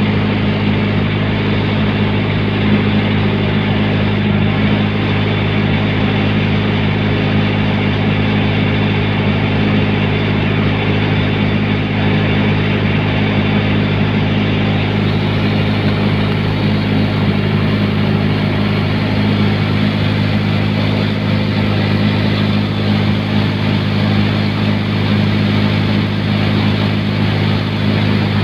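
Hyundai backhoe (hydraulic excavator) diesel engine running steadily at working throttle, a constant low drone.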